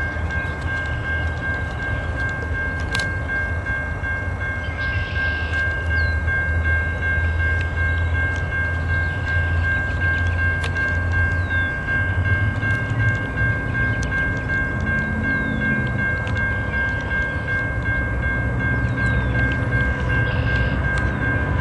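An approaching train: a steady low rumble that grows a little louder about six seconds in, under a steady high-pitched whine, with a few short chirps.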